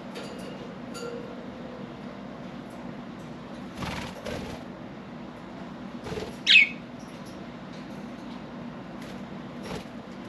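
Budgerigars: a brief flutter about four seconds in, then one sharp chirp falling in pitch about six and a half seconds in, the loudest sound, with a few faint chirps scattered around it. A steady low hum runs underneath.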